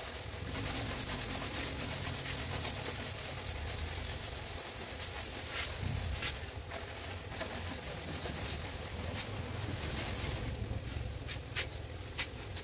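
Vegetables sizzling in a wok on a gas stove, a steady hiss over a low rumble. The sizzle fades about ten seconds in, and a few sharp clicks follow near the end.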